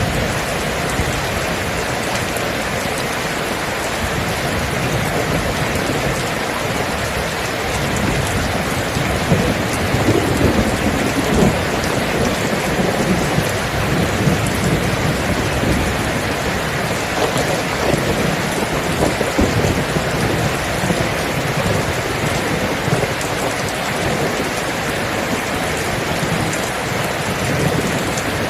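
Steady heavy rain falling, with low rolling thunder that swells in the middle of the stretch.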